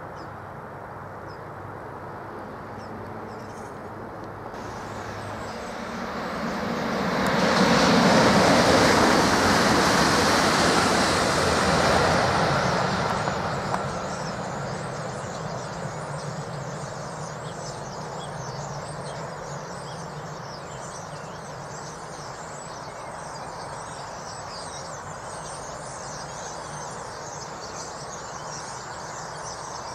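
Southeastern Class 395 Javelin electric train passing at speed on High Speed 1: a rushing noise that builds over a few seconds, peaks about eight seconds in, and dies away as it recedes.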